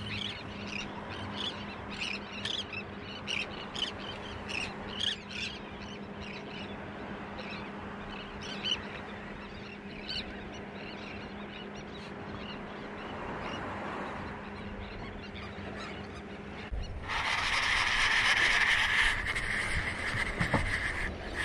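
Birds calling over the water, many short high calls in quick succession during the first half, over a steady low hum. Near the end a louder rushing noise takes over for about four seconds.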